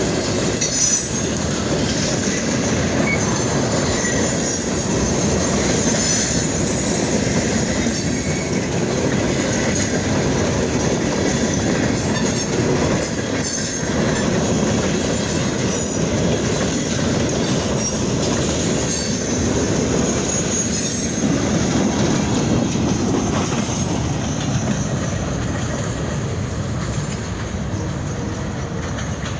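A freight train's cars rolling past at speed, their steel wheels clattering continuously on the rails. The sound eases off slightly near the end.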